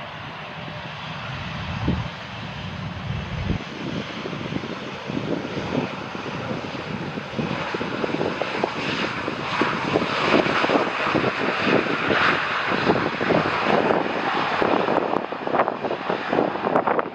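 Jet airliner on landing approach, its engine noise growing steadily louder as it nears and passes close by.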